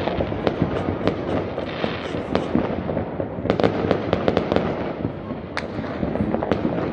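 Fireworks and firecrackers going off: a dense, continuous run of sharp bangs and crackles over a steady rumble, with a quick flurry of cracks about halfway through.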